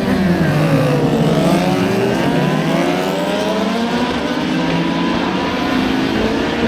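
Several superbike racing motorcycles running at high revs on track: one engine note falls as it passes by, then several climb together as the bikes accelerate.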